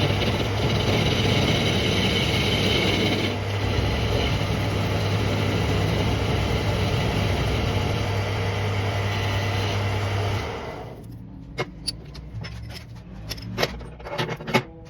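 An electric workshop machine running steadily with a low hum, which cuts off about ten and a half seconds in. After that come scattered sharp clicks and knocks.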